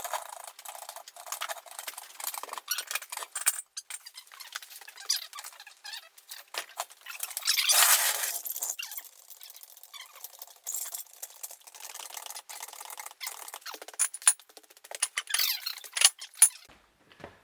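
A busy run of small clicks, squeaks and rattles from hands-on work with tools and car parts, with a longer scraping hiss about eight seconds in.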